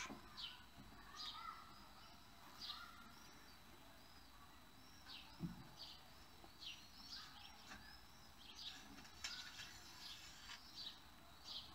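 Faint background chirping of a small bird: short, high chirps repeating about once or twice a second. A soft knock comes about halfway through.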